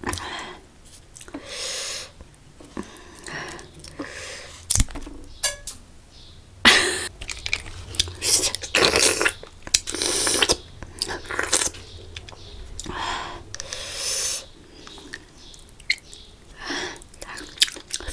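Close-miked eating sounds: irregular chewing and wet sucking noises. The eater is most likely taking on spicy water snails (ghungi).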